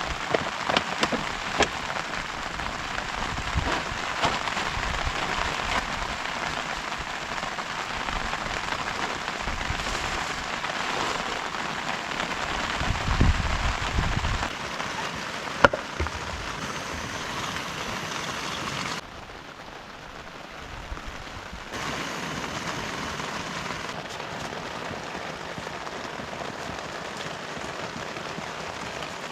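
Heavy rain falling steadily, with a few sharp drip ticks near the start and one more past the middle. A low rumble comes about halfway through, and the rain drops in level for about three seconds.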